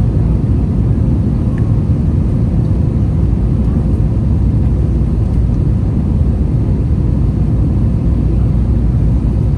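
Steady low rumble of an Airbus A321 in flight, heard from inside the passenger cabin: engine and airflow noise, with a faint steady hum above it.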